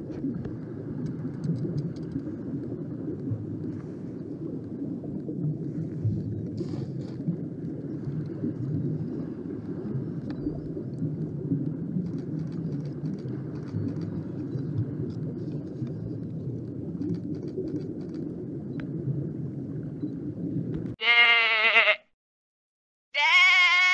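Steady low rushing noise of wind and lapping water at a shoreline. Near the end, sheep bleat twice, loud wavering calls about a second each.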